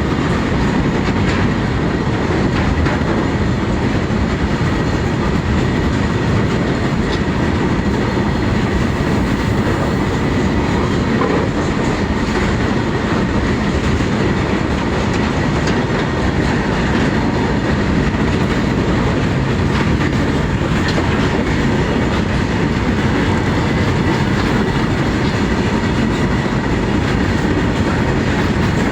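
Freight train wagons rolling steadily past at speed on the Dedicated Freight Corridor track: a continuous loud rumble of wheels on rails with clickety-clack over the rail joints and a faint steady squeal.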